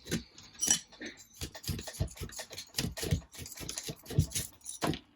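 Small RC car parts, bearings and steering-rail pieces, clicking and knocking irregularly as they are handled and set down, with light scraping between the clicks.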